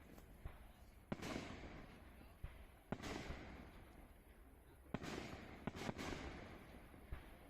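Fireworks going off: a series of sharp bangs, one every one to two seconds with a close pair near the end, each trailing off in a fading crackle.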